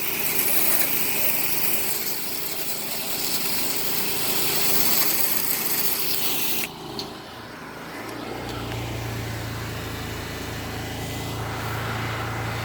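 Pressure washer spraying: a loud hiss of the water jet over a running engine, which cuts off suddenly about two-thirds of the way through. After it a steady low engine hum carries on.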